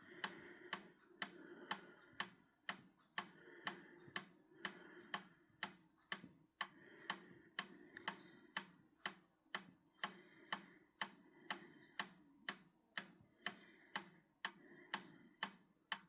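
Steady, even ticking, about two sharp ticks a second, over a faint steady hum.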